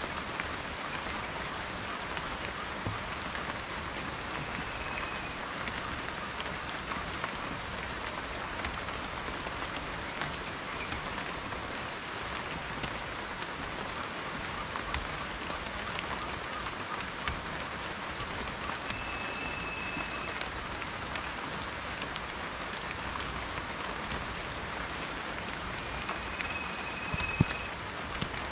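Steady rain with individual drops ticking sharply through the hiss, and one louder drop knock near the end. A few faint, short high tones sound over it three times.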